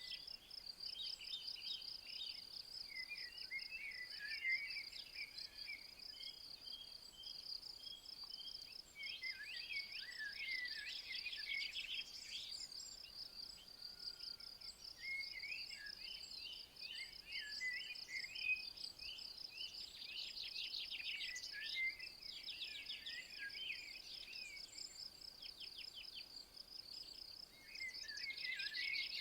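Insects, likely crickets or bush-crickets, trilling in a steady, rapid high pulse, with songbirds singing short varied phrases on and off over it.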